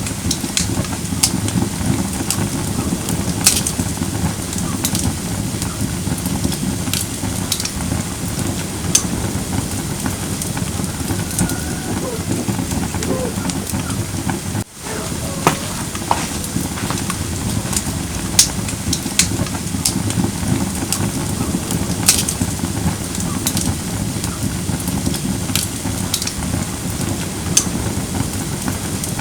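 Firewood burning in a fire pit: a steady low rush of flames with sharp crackles and pops every second or so. The sound cuts out for an instant about halfway through.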